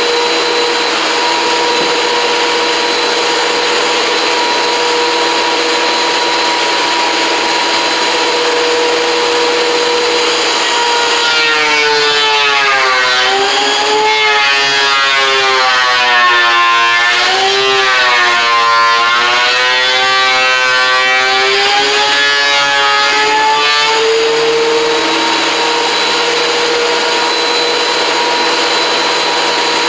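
WEN 13-inch benchtop thickness planer running with a steady high whine. About 11 seconds in, a rough-cut board feeds through and the motor's pitch drops and wavers under the load for some 13 seconds, then climbs back to its free-running whine.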